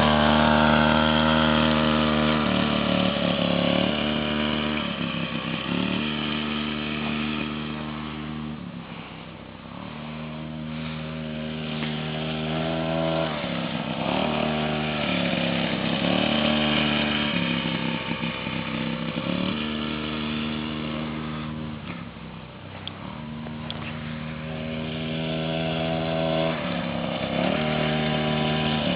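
Motocross dirt bike engine revving up and dropping back again and again as it rides, growing fainter about nine seconds in and again around twenty-two seconds, then louder as it comes back toward the listener.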